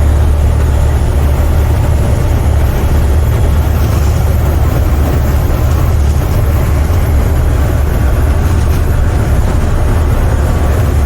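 Semi truck's diesel engine running steadily on the road, heard from inside the cab as a low, even drone with road and wind noise over it. The truck is an International with a MaxxForce 13 engine.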